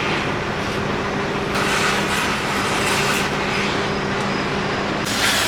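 A steady machine hum, like an engine running, with two spells of loud hissing: one from about a second and a half in, and another starting near the end.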